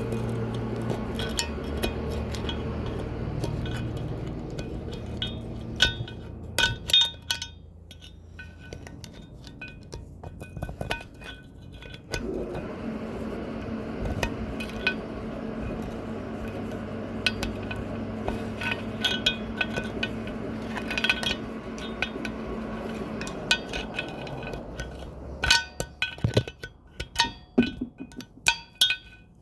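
Metal tools and valve parts clinking and clicking against a Toyota 2TR cylinder head while valve stem seals are removed, with a cluster of sharp metallic clicks near the end. A steady low hum runs underneath for much of the time.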